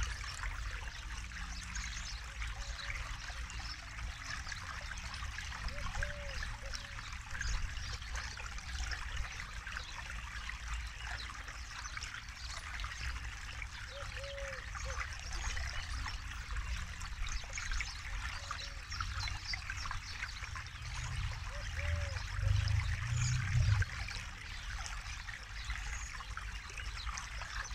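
River water flowing and trickling in a steady rush. A few short low calls sound now and then, and a low rumble swells briefly about three quarters of the way through.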